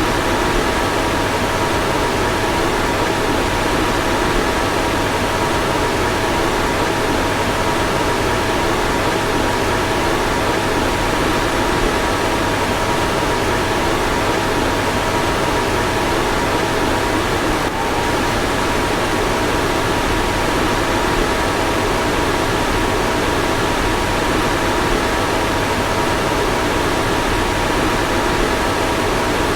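Car fan running steadily: an even rushing air noise with a faint constant hum, and a slight momentary dip about 18 seconds in.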